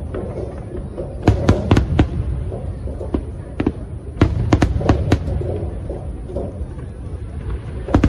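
Fireworks display: a rapid series of sharp aerial shell bangs, bunched together from about one to six seconds in, over a continuous low rumble.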